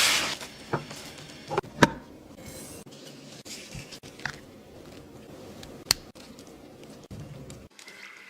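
A hiss fading out in the first half-second, then a few scattered sharp clicks and taps of small objects being handled, with quiet stretches between.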